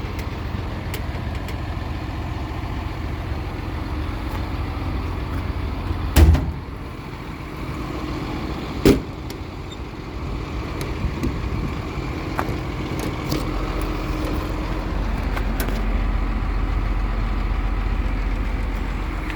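An engine idling steadily, with scattered small clicks and two loud thumps about six and nine seconds in.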